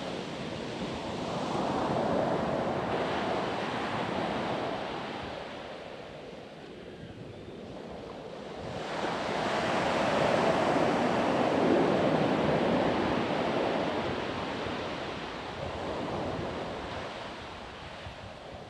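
Ocean waves breaking and washing up a sandy beach, rising and falling in swells, with a bigger wave crashing in about nine seconds in and slowly ebbing away.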